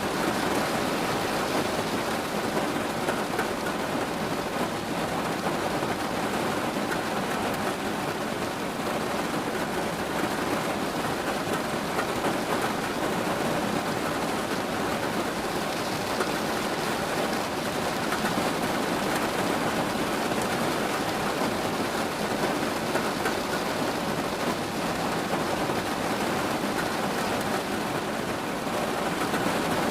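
Steady rain falling, a dense, even patter with no breaks.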